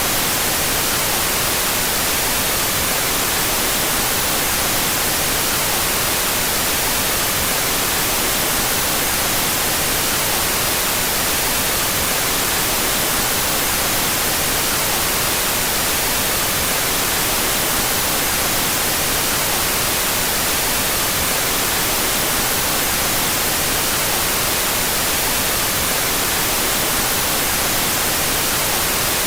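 Steady synthetic white noise, an even hiss that does not change, brightest in the high frequencies.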